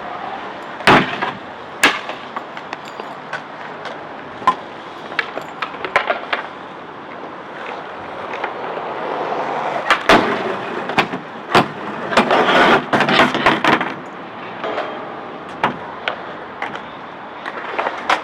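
Skateboard rolling over hard ground, with sharp clacks of the board hitting down every second or so and a dense rattling grind a little past the halfway point.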